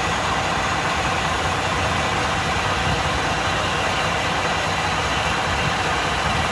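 A vehicle engine idling steadily with a low rumble, no revving or sudden noises.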